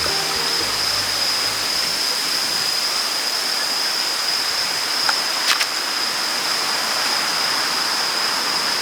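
Steady rushing outdoor noise with a constant high-pitched whine, broken by two sharp knocks about half a second apart around the middle.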